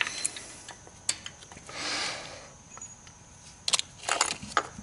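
Scattered small metal clicks and clinks of socket-set pieces (socket, extension, angle adapter) being handled and fitted together down a spark plug well, with a short soft rustle about two seconds in and a quick cluster of clicks near the end.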